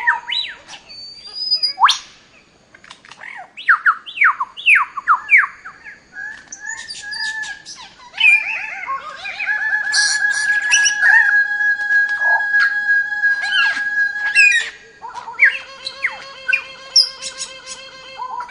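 Bird calls: a run of quick, downward-sweeping chirps, then long held whistled notes, over background music.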